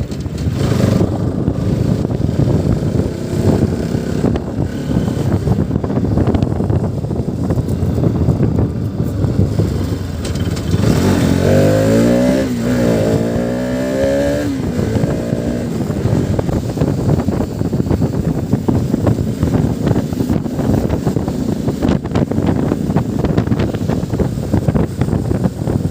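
Motorcycle riding on the move, engine running under a heavy rush of wind noise. Near the middle, an engine revs up and down several times over about five seconds.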